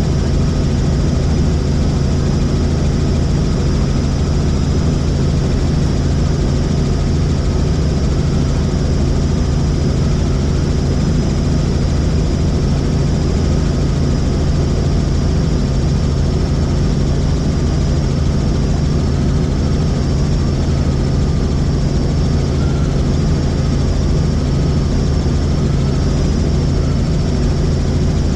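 Helicopter in flight: the rotor and engine make a steady, loud drone with a thin high whine above it.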